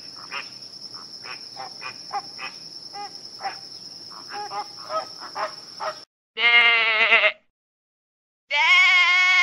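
A flock of flamingos giving short, clipped honking calls over a steady high insect buzz. About six seconds in this gives way to two loud, wavering sheep bleats of about a second each.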